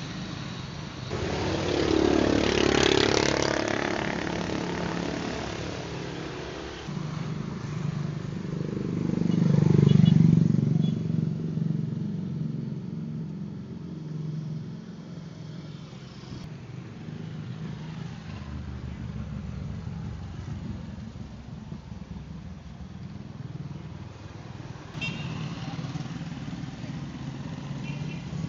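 Motor vehicles passing by: one loud pass about two to four seconds in and a louder one around ten seconds in, then a steady engine running.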